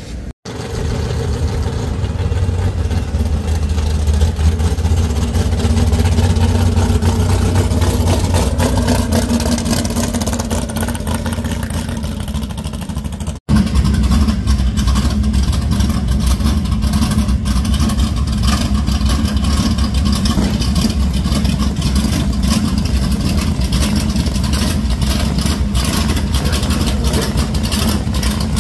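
Classic car engine running steadily and loudly at idle with a deep low rumble, cutting out briefly twice where the footage is spliced.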